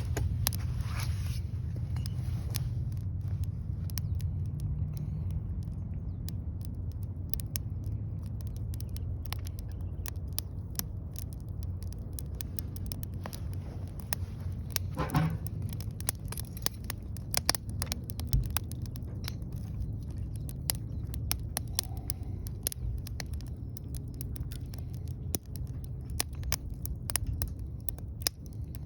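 Wood fire burning in a BUNDOK Lotus fire pit, crackling with scattered sharp pops that come more often after the first few seconds, over a steady low rumble.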